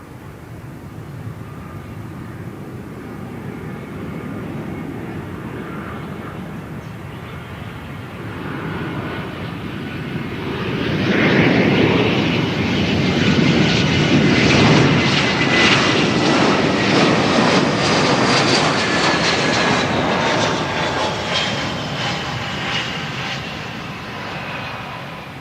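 Airbus A320 jet airliner passing by on its landing approach. The engine noise builds, is loudest about halfway through with a whine that falls in pitch as it goes past, then fades away.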